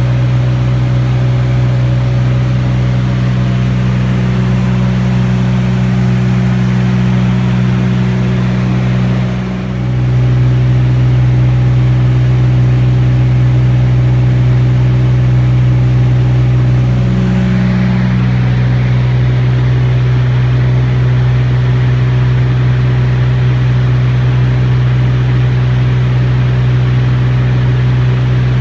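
T-34 Mentor's piston engine and propeller running in a steady, loud drone, with a short dip in power about nine seconds in and a shift in pitch a little past halfway.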